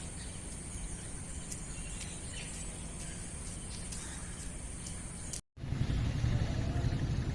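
Steady low rumble of city and vehicle ambience with a constant thin high-pitched whine. It cuts out abruptly about five and a half seconds in, and a louder low rumble takes over.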